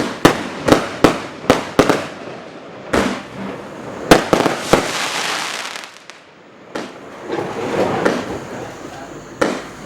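Consumer firework cake (Showbox Sensation) firing: a quick run of sharp bangs about two a second, then louder single reports with spells of dense hiss between them. There is a brief lull about six seconds in, then more hiss and another bang near the end.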